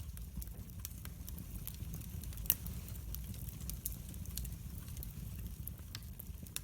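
Wood fire burning in a fireplace: a steady low rumble with scattered sharp crackles and pops, one louder pop about two and a half seconds in.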